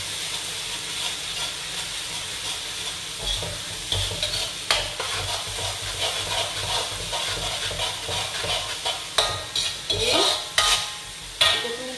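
Chilli paste with dried anchovies sizzling steadily as it fries in a metal wok, stirred with a stainless slotted spoon. The spoon scrapes and clinks against the wok, a few times about halfway through and more often near the end.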